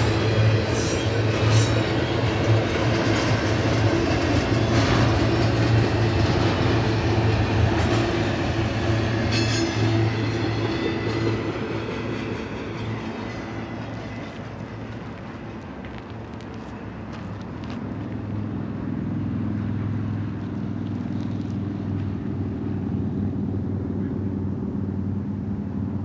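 BNSF double-stack intermodal train's well cars rolling past: a steady rumble of wheels on rail with a few sharp clicks and squeaks. It fades about twelve seconds in as the end of the train moves away, leaving a quieter low drone.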